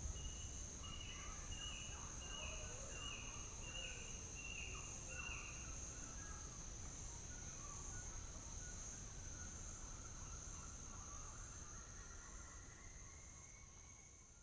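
Faint rainforest ambience: a steady high-pitched insect drone, with a bird calling in a run of short falling notes, about two a second, for the first few seconds, and other scattered bird chirps. It fades out near the end.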